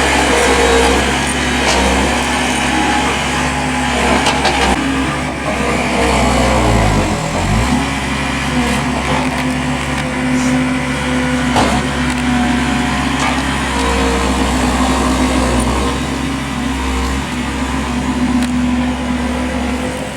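Heavy machine engine running steadily at a job site, with its pitch dropping and climbing back once about seven seconds in, and a single sharp knock just past halfway.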